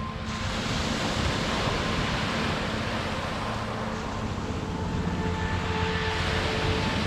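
Sea waves washing onto the shore, the surf swelling a moment in, easing around the middle and building again near the end. Soft background music of held notes plays under it.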